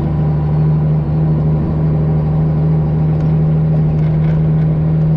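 Straight-piped Detroit Diesel 12.7-litre engine of a Freightliner Classic XL semi truck running at a steady pace, a loud low drone that holds one pitch.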